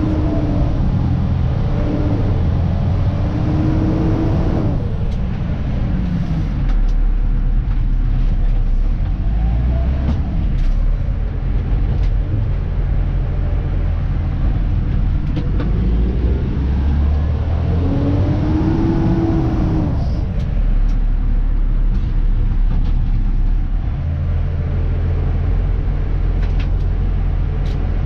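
Dennis Elite 2 refuse truck's diesel engine and drivetrain, heard inside the cab while driving: a steady low rumble. A whine rises and falls in pitch over the first few seconds, and again about two-thirds of the way through.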